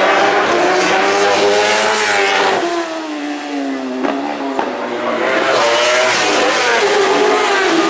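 Superbike racing motorcycles passing at speed, the engine note falling in pitch as each goes by: one pass in the first few seconds and another in the second half.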